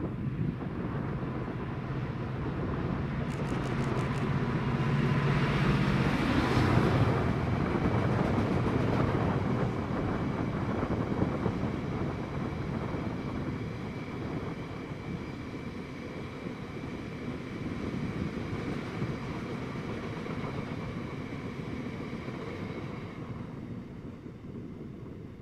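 Class 66 diesel locomotive hauling a freight train past. The engine noise and rail roar build to a peak about six seconds in, then the wagons run by with a steady rumble that slowly fades.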